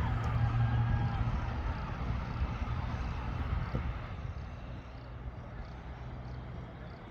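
An engine running with a steady low hum that gradually fades away.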